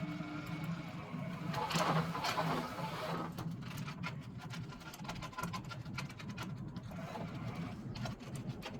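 MIG welding wire being wound off one spool onto another on a homemade wooden jig: a steady low hum with frequent sharp clicks and rattles from the turning wire and spool, and a louder rustling burst about two seconds in.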